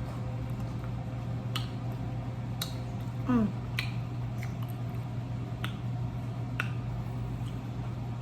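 Eating sounds: a scattering of sharp clicks and smacks of chewing and lip smacking. About three seconds in comes a brief hum falling in pitch, the loudest moment. A steady low hum runs underneath.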